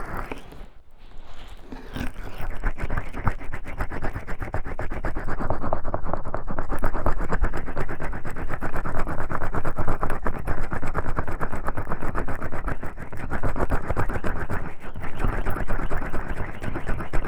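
Oiled hands massaging the ears of a 3Dio binaural microphone: close, continuous rubbing and slick friction made up of many fast small strokes, picking up about two seconds in.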